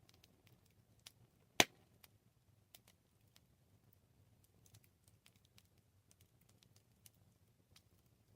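Campfire wood crackling: scattered small pops and snaps over a faint low hiss, with one sharp, much louder pop about a second and a half in.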